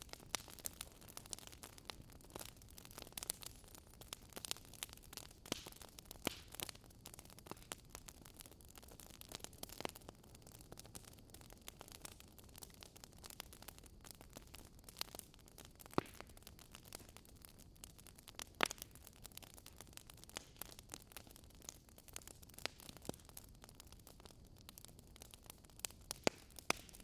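Wood campfire crackling: irregular sharp pops and snaps, a few louder ones standing out, over a faint steady rush of river water.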